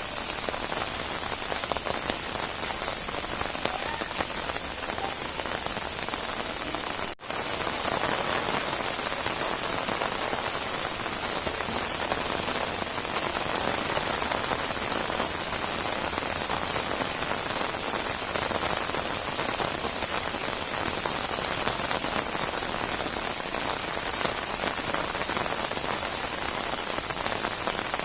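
Steady heavy rain falling, a dense even hiss of drops. There is a momentary dropout about seven seconds in, after which the rain is a little louder.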